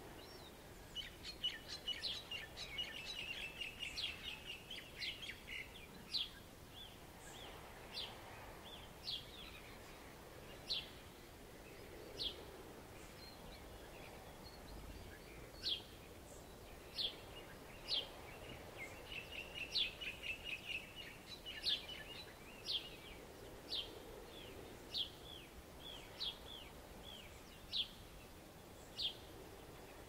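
Birds calling: a string of short, sharp descending chirps spaced a second or two apart, with two stretches of rapid twittering, over a faint wash of surf that swells and fades.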